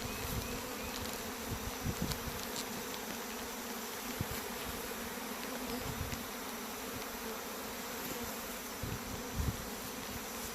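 A honey bee swarm buzzing steadily at close range, a dense mass of many bees in flight and on the comb-less box as they are shaken into a new hive, with a few faint knocks.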